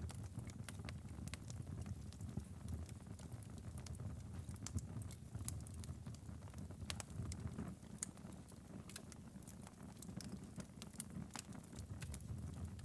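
Wood fire crackling in a fireplace: frequent irregular sharp snaps and pops over a steady low rumble of flames.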